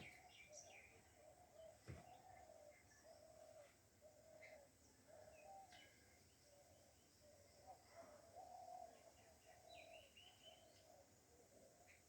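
Faint bird calls: a low call repeated over and over, with scattered higher chirps. One sharp click about two seconds in.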